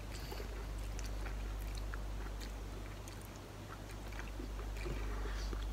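A person chewing a mouthful of noodles, with a few faint clicks, over a steady low hum.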